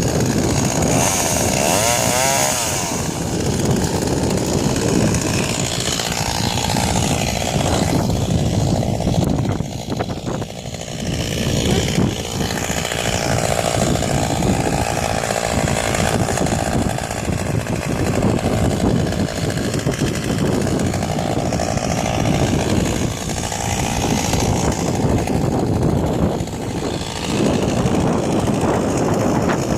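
Two-stroke chainsaw running loudly and without a break, its engine note dipping and recovering several times.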